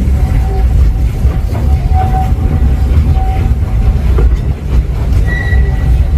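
Walt Disney World Railroad steam train running, heard from aboard the passenger cars: a steady low rumble of wheels on track, with faint thin wheel squeals coming and going.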